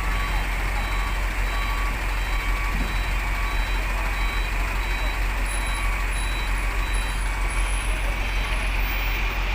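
Truck reversing alarm beeping steadily, about two short beeps a second, over a steady low rumble.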